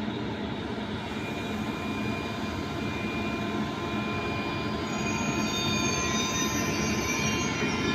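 A train moving in a railway station: a steady rumble, with several high whining tones joining in about five seconds in.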